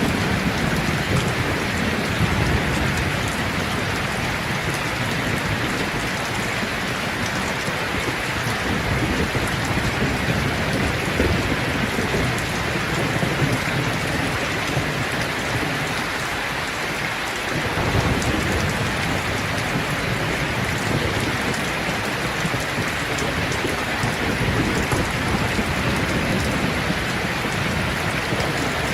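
Steady, dense rain pattering, with low rolling thunder rumbling underneath that thins out briefly a little past the middle.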